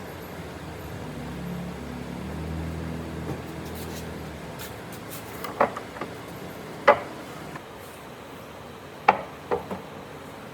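A low mechanical hum dies away over the first few seconds, then five sharp knocks of wood against wood: two a little over a second apart, then three close together near the end.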